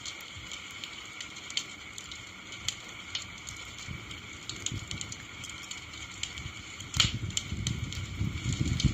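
Wood campfire crackling, with scattered sharp pops and one loud crack about seven seconds in. After the crack a louder low rushing sound sets in near the end.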